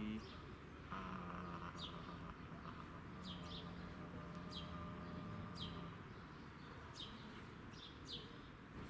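A songbird calling over and over with short, high, downward-sweeping chirps, about one a second. A faint sustained low tone with a higher ringing overtone starts about a second in and dies away by about six seconds.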